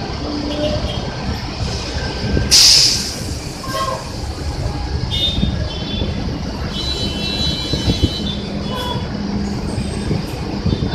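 Large city buses' diesel engines running with a steady low rumble, a loud burst of compressed-air hiss from a bus's air brakes about two and a half seconds in, and high thin squeals in the middle.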